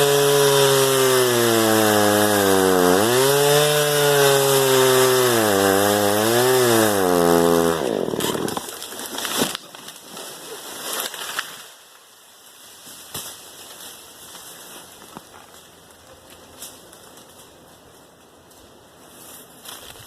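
Hoteche chainsaw running at high revs, its pitch dipping and recovering three times, then winding down and stopping about eight seconds in. After that there are only a few faint scattered knocks and cracks.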